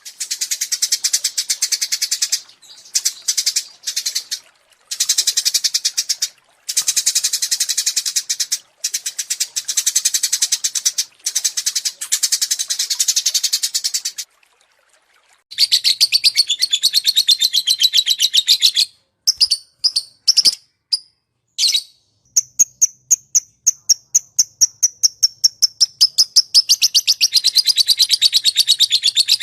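Small songbirds singing rapid, high chirping trills in bursts of quick repeated notes, from an edited masteran compilation of small-bird song. There is a short pause about halfway, and near the end a fast run of notes sinks slightly in pitch.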